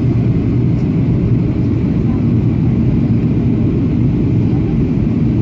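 Boeing 737-800's CFM56-7B engines and airflow on approach: a loud, steady, low rumble with no breaks.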